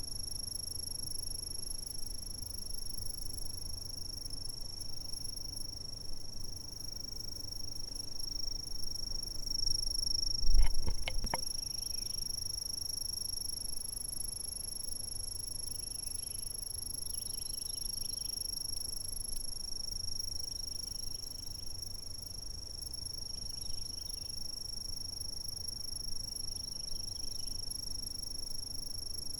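Insects trilling in one steady, unbroken high-pitched chorus over a low rumble. About ten seconds in there is a brief loud thump with a few clicks, and later come faint short chirps.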